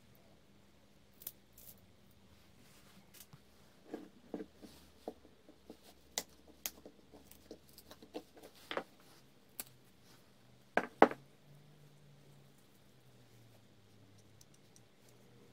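Scattered small clicks and knocks at irregular intervals, the sound of small hard parts being handled and set down on a workbench, with the loudest a quick double knock about eleven seconds in.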